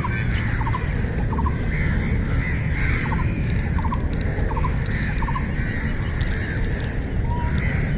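A bird repeating a short three-note call several times in two runs, over softer chirping and a low steady rumble.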